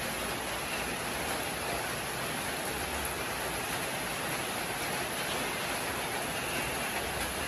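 Steady rain falling on garden plants and wet paving: an even hiss with no breaks.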